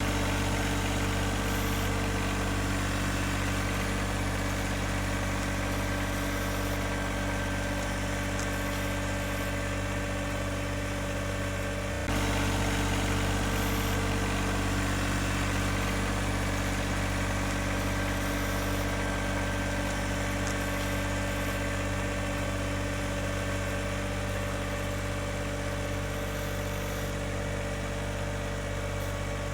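John Deere 1026R compact tractor's three-cylinder diesel engine running steadily under load while pulling a plough through the ground. About twelve seconds in the sound shifts suddenly and becomes slightly louder, then carries on steadily.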